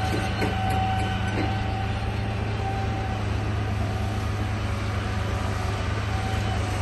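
Radio-controlled bulldozer running: a steady low hum, a whine that comes and goes, and a few knocks in the first second and a half.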